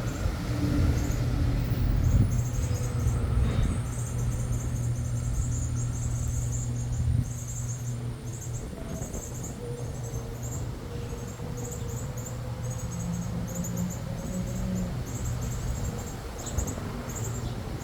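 Small birds chirping in quick, high-pitched runs over a steady low rumble of distant traffic.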